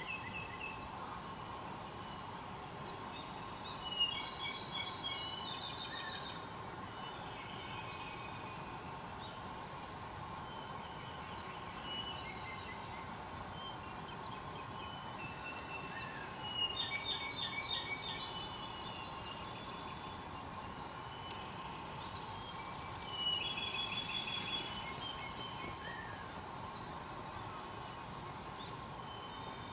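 Wild songbirds singing and calling: loud, short, high-pitched notes in quick clusters of two to four recur every few seconds, alternating with longer, lower warbling phrases, over a steady faint hum.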